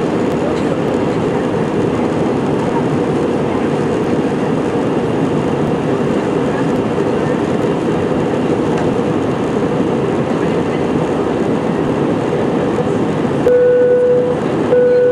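Steady airliner cabin noise, the engines and airflow heard from inside the cabin. Near the end, two steady tones of one pitch, about a second each, sound over it.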